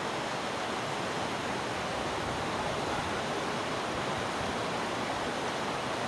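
Steady rushing of water, an even noise with no breaks or distinct events.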